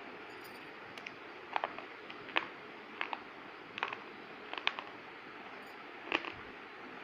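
Crunching: irregular sharp crunches, singly and in quick pairs, about a dozen in all, over a steady hiss, like crunchy food being bitten and chewed.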